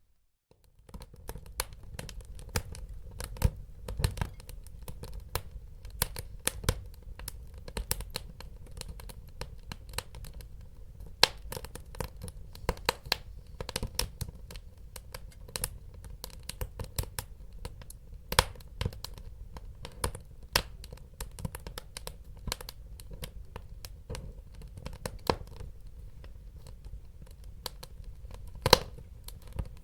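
Wood fire burning in a fireplace: a steady low rumble with frequent, irregular sharp crackles and pops. It starts after a brief silence about a second in.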